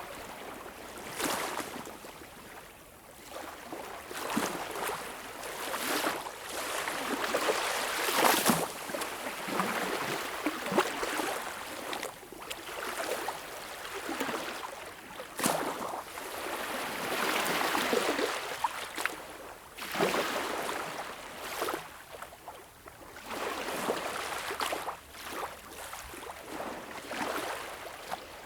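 Gentle waves lapping at the shore, rising and falling in swells a few seconds long, with sharper splashes about 8, 15 and 20 seconds in.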